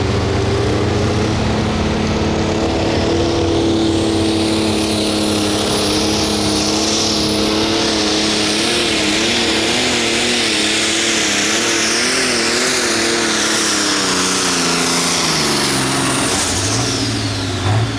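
Pro stock pulling tractor's diesel engine running flat out under load with a high whine over it; the engine pitch wavers about halfway through, then drops away near the end as the pull runs out.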